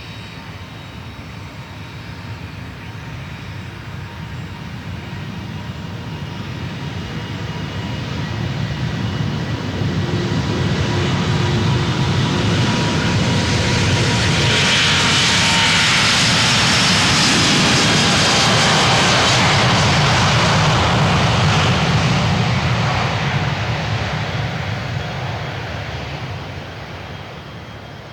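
Airbus A350-900's Rolls-Royce Trent XWB turbofans at takeoff power, the jet noise growing louder, peaking about two thirds of the way through and fading as the airliner goes past. A thin fan whine drops slightly in pitch as it passes.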